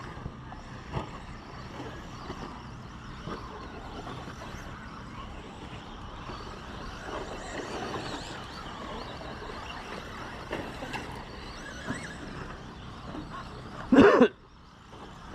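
Radio-controlled short course trucks racing, their motors whining and changing pitch over a steady background of track noise, with scattered clicks. A loud thump comes near the end.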